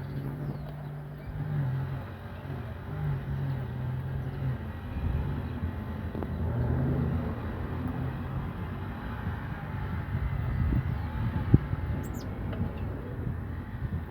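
Steady low rumble like distant vehicle traffic, with a low droning hum that fades in and out, and a sharp click a little after halfway. A few faint high finch chirps sound over it, the clearest near the end.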